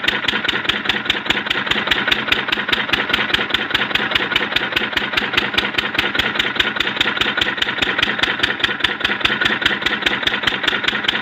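Single-cylinder 10 hp stationary diesel engine of the Lister/Field Marshal type running steadily, each firing stroke heard as one beat in a rapid, even thump.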